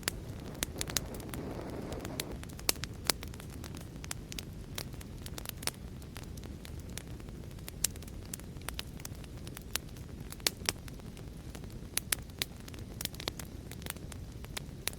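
Wood fire crackling: a steady low rumble of burning with frequent sharp, irregular pops and snaps, and a brief gusty swell of flame about a second in.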